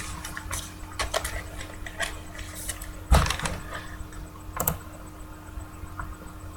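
Trading cards being handled and sorted: scattered light clicks and rustles of card stock, with a sharper knock about three seconds in and another about a second and a half later.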